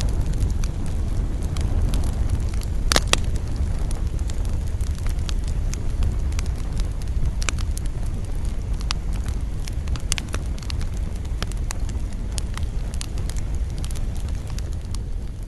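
Wood campfire crackling, with many irregular sharp pops and snaps over a steady low rumble. A louder pop comes about three seconds in.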